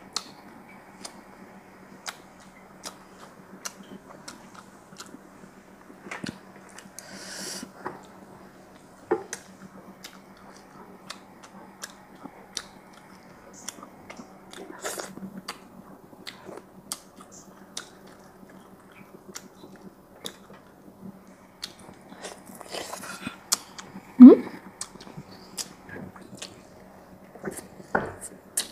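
Close-miked chewing and mouth noises of a person eating rice and braised fish, with many small sharp clicks of lips, teeth and chopsticks against a glass rice bowl. A steady low hum runs underneath, and a brief, louder, pitched mouth sound comes about three-quarters of the way through.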